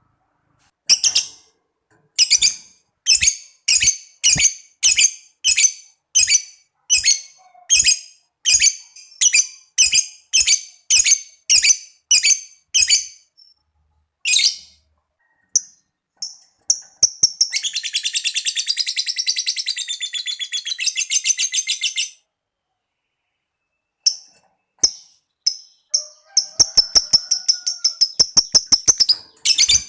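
Lovebird calling: a run of short, high chirps about two a second (the 'ngetik' call), then a long rapid chattering trill lasting about four seconds (the 'ngekek'), then more chirps and a shorter fast run near the end.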